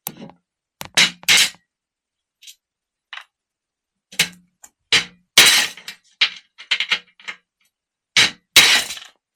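Hammer blows on the knurled brass terminal stud press-fitted in a CVR starter motor: about a dozen sharp metallic strikes, some single and some in quick runs, with pauses between. The stud is a tight press fit and does not drive out.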